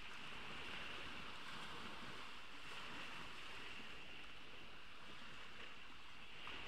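Ocean waves washing onto a beach: a steady hiss of surf with no distinct breaks.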